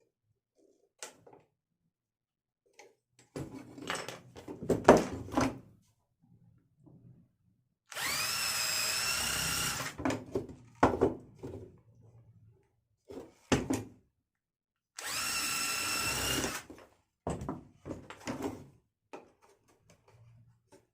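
Electric drill run twice, about two seconds each, its motor whine rising as it spins up and then holding steady. Knocks and clatter of wooden cage parts being handled come between the runs.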